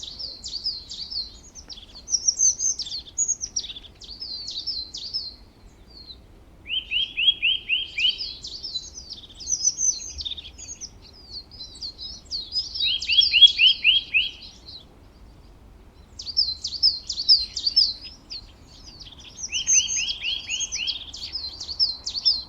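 Songbirds singing, with steady high chirps and twitters. Every six seconds or so comes a quick run of about five lower, downward-sweeping notes.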